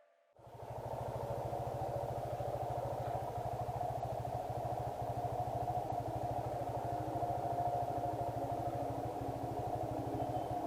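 Single-cylinder motorcycle engine running steadily with an even, rapid firing pulse. It cuts in sharply about half a second in, after near silence.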